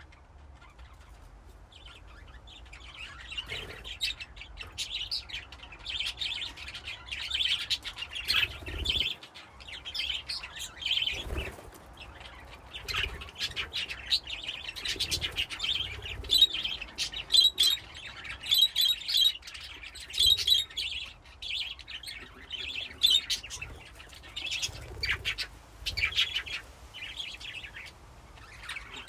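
A flock of budgerigars (budgies) in a colony cage chirping and warbling: many overlapping short chirps, trills and clicks, with a few low thuds.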